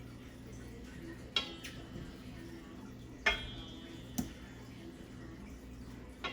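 Kitchenware clinking: four sharp clinks of a utensil against metal cookware, the first two ringing briefly, over a steady low hum.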